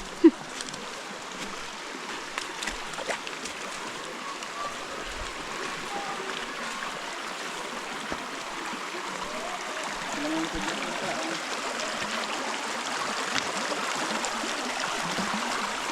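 River water rushing steadily over rocks, growing gradually louder toward the end, with one sharp knock about a third of a second in and faint distant voices.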